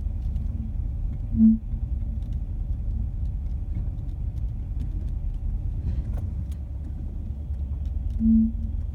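Mercedes-AMG E63 S idling with a steady low rumble, with a short groan from the front wheel/steering when the wheel is turned, about a second and a half in and again near the end. The groan shows up only after repeated Race Start launches and goes away once the car has cooled; its cause is unknown.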